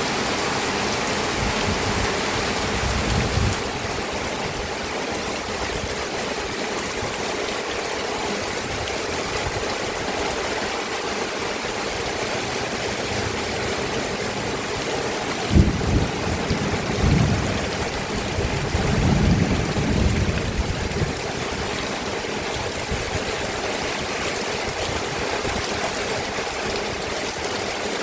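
Steady rain falling as an even, continuous hiss. A few short low rumbles break in, the sharpest about halfway through.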